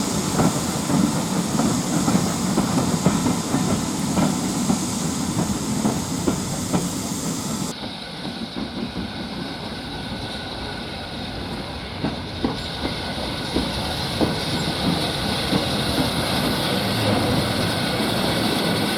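Steam-hauled train running on the line: a steady rushing rumble with irregular clicks of wheels over rail joints. The high hissing drops out abruptly about eight seconds in and builds back later.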